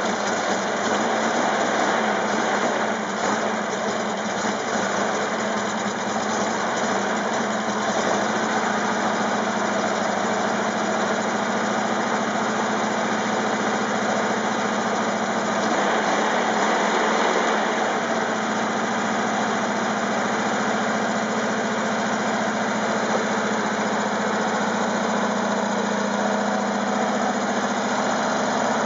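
1961 Porsche 1600 air-cooled flat-four engine running steadily just after starting, with its speed shifting a little a couple of times as the carburettor is worked.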